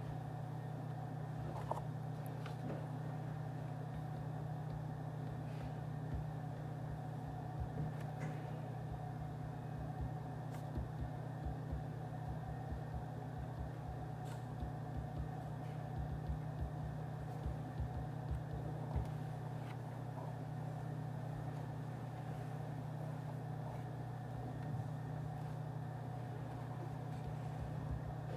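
Office background ambience: a steady low hum with an even layer of noise above it. Scattered faint short clicks and taps come through it.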